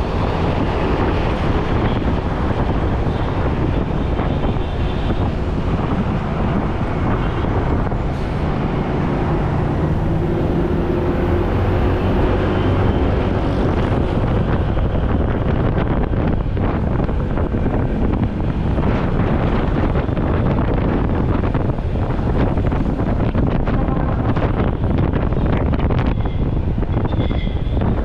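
Fire engine driving, its steady engine and road noise mixed with heavy wind buffeting the microphone.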